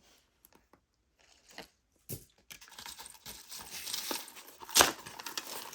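Costume jewelry being handled: rustling and crinkling with small clicks and clinks that start about two and a half seconds in, and one sharper click just before the end.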